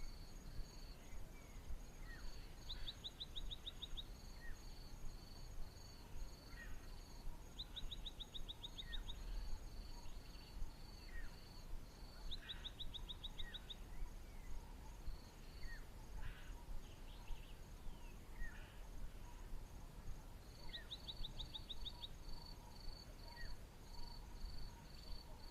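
Natural bush ambience: a high chirp repeated steadily about twice a second, a short fast trill every few seconds, and scattered faint chirps over a low background rumble.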